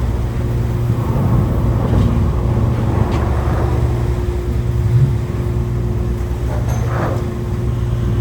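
Car ferry Furutaka's engines running steadily: a low drone heard aboard, with a steady hum joining about four seconds in.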